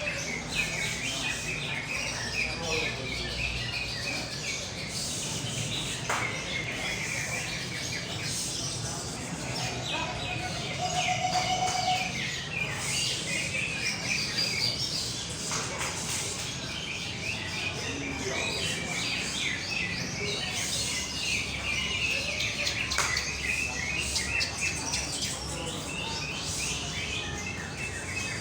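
Several green leafbirds singing at once: a dense, continuous run of fast chirping, warbling phrases, with a murmur of people's voices underneath.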